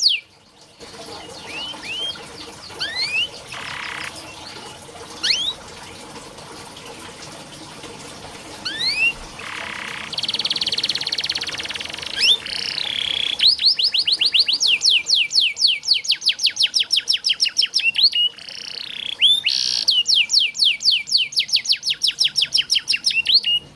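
Domestic canary singing: scattered rising whistled chirps and a couple of short buzzy notes, then from about halfway a long, fast roll of repeated rising notes, about five a second, broken briefly once near the end.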